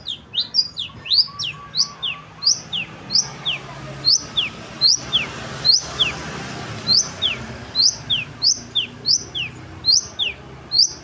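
Long-tailed shrike (cendet) calling over and over: each call is a sharp rising whistle followed at once by a falling one, repeated about once or twice a second.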